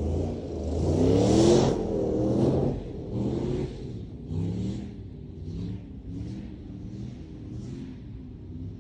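2009 Jeep Commander's 5.7 Hemi V8 revving hard, climbing to its loudest about a second and a half in, then rising and falling in a run of shorter rev swells about once a second.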